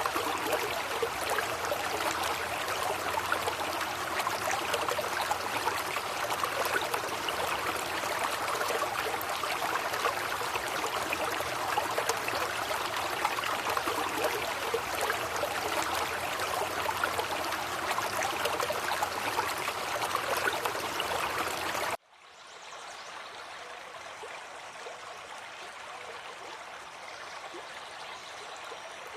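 Rushing water, a steady dense roar, that cuts off suddenly about three quarters of the way through and gives way to a quieter, softer rush of water.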